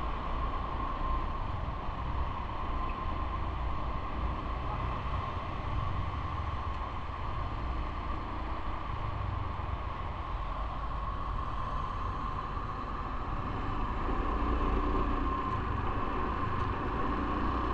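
Steady road-riding noise: a low rumble of wind and vehicle noise with a thin, steady whine above it, unbroken throughout.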